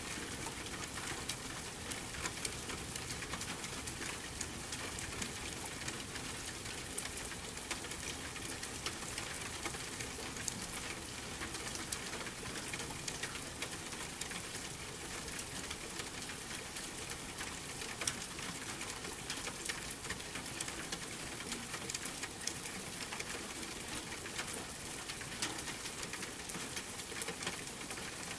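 Steady rain hiss with many small, sharp crackles and pops of a wood fire burning in a fireplace scattered through it.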